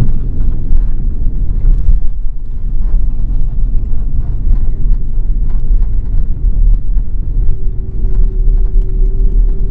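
Inside an airliner's cabin on the ground after touchdown: a loud, steady low rumble from the jet engines and the wheels rolling on the pavement. The hiss above the rumble fades about two seconds in, and a faint steady hum joins near the end.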